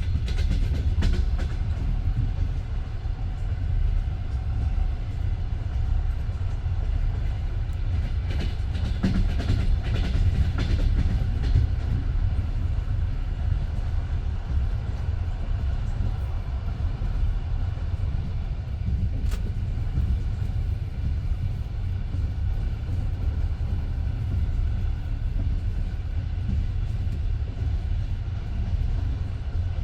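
Passenger train carriage rolling at speed, heard from inside the car: a steady low rumble of wheels on rails with the clack of wheels over rail joints, thickest about eight to twelve seconds in.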